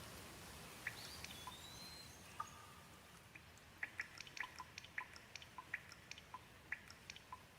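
Gentle rain, with water drops dripping in single sharp taps that come thicker in the second half over a soft hiss. A faint high whistle rises briefly about a second in.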